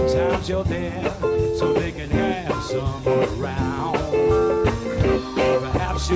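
Live rock band playing: guitars over bass, drums and keyboards, with sustained melody notes that bend and waver.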